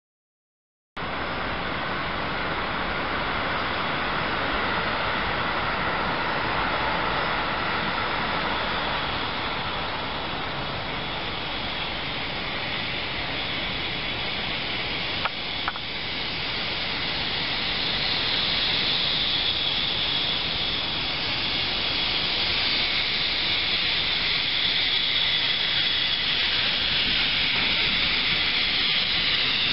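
Steady noise of an approaching freight train, a JR Freight EF65 electric locomotive hauling Koki container flatcars. A high hiss in it grows louder over the last third as the train nears. Two sharp clicks come around the middle.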